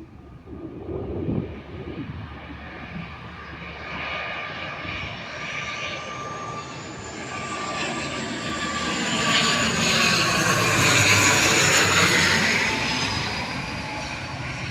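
ATR 72-600 turboprop airliner's twin turboprop engines and propellers passing by. The sound grows louder to a peak about eleven seconds in and then fades, with a high whine that drops slightly in pitch as it goes past.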